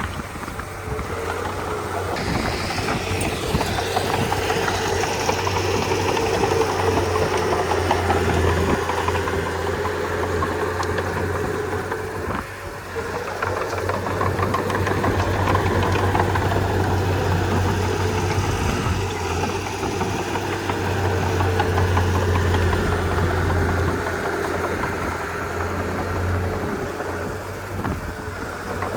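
Komatsu D31P bulldozer's diesel engine running as the machine works, its level swelling and easing, with a brief dip about twelve seconds in.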